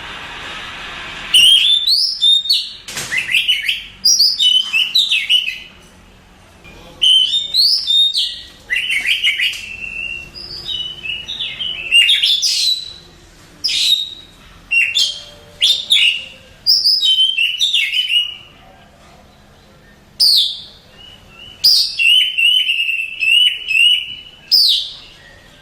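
Oriental magpie-robin (kacer) singing: a string of loud, varied whistled phrases and quick chattering notes, separated by short pauses. About two-thirds of the way through comes a rapid, evenly repeated run of notes.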